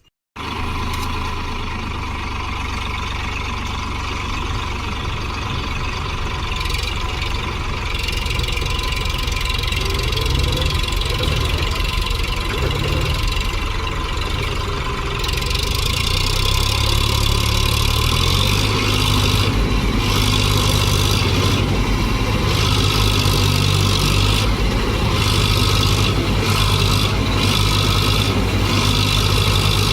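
Tractor diesel engine running steadily, growing louder about halfway through.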